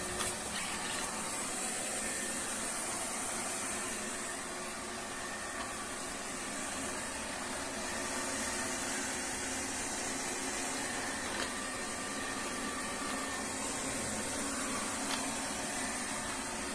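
Robot vacuum cleaner running steadily: an even whir with a high hiss from its suction fan.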